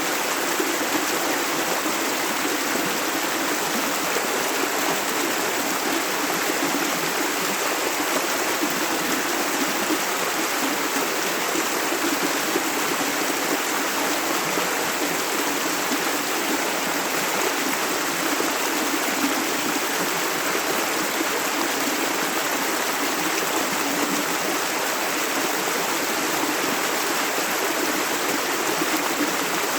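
A river's running water, a steady, even rushing flow with no breaks.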